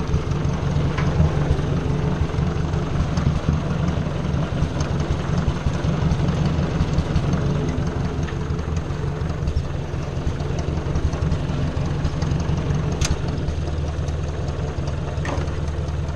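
Ford 600 farm tractor engine running steadily, with an even low exhaust beat.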